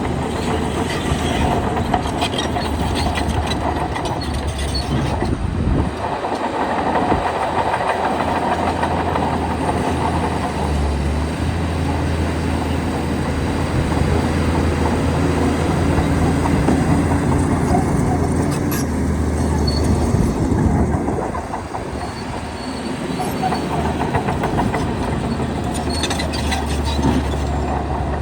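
Diesel engine of a Shantui DH17-C2 crawler bulldozer running under load, its note rising and falling as it works, with the steel tracks clanking.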